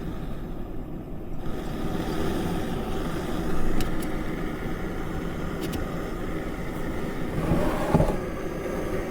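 Jetboil canister gas stove burning with a steady hiss under a pot of water, getting louder about a second and a half in. A few faint clicks are heard. The stove is struggling in the cold, in the camper's own words it 'doesn't like the cold weather'.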